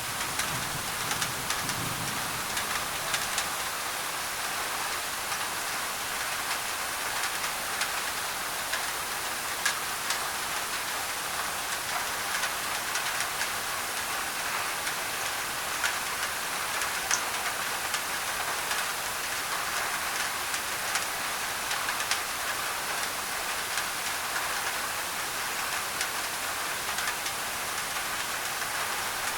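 Steady rain pattering on a thin tin roof, with many small drop ticks in a constant hiss that is overlaid with white noise. There is a faint low rumble in the first couple of seconds.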